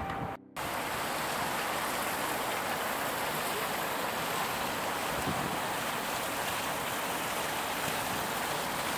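Steady wash of sea surf on a beach, an even hiss without a break, starting just after a brief dropout near the start.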